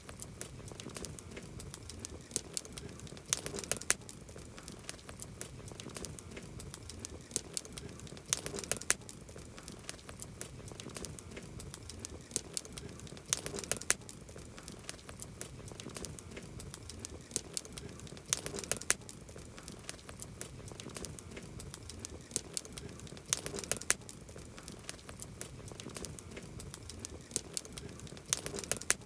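Wood campfire crackling: a steady scatter of sharp snaps and pops over a low hiss, with louder bursts of popping about every five seconds.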